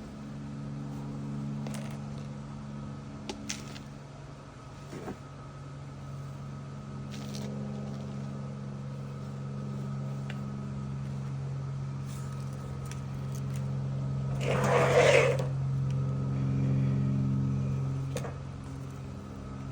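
A steady low mechanical hum runs throughout, with a few light clicks and knocks and one brief loud rustling, scraping noise about fifteen seconds in.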